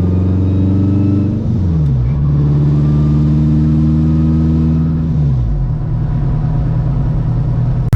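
A 900-horsepower street car's engine running under way, heard from inside the car, with the revs falling and settling twice: about a second and a half in and again about five seconds in.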